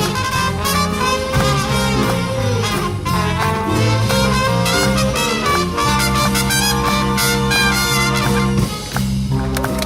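A big band with trumpets, saxophones and trombones playing a jazz number over a walking bass line, with a brief break about nine seconds in.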